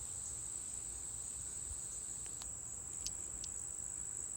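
Crickets chirping in one unbroken high-pitched trill, with a few brief faint ticks about halfway through.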